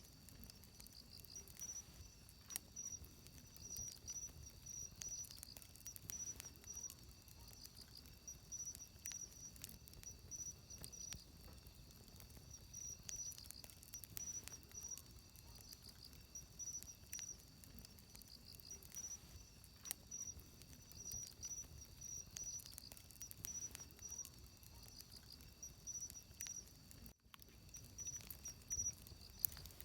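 Wood fire crackling with scattered sharp pops, over insects chirping steadily in short repeated high pulses. There is a momentary break in the sound near the end.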